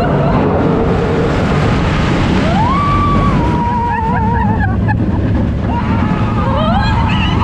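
Expedition Everest roller coaster heard from a rider's seat: a loud, steady rush of wind and rumble on the microphone. Over it come long wailing tones that slide up in pitch, about two and a half seconds in and again near the end.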